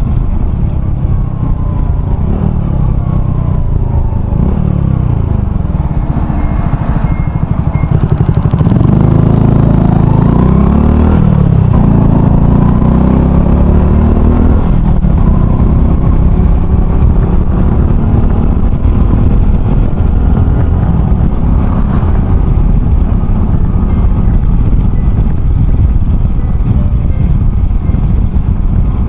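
Honda Cross Cub 110's single-cylinder four-stroke engine, fitted with an RPM Raptor aftermarket muffler, running while the bike is ridden. The revs rise and fall several times in the first half, then hold fairly steady.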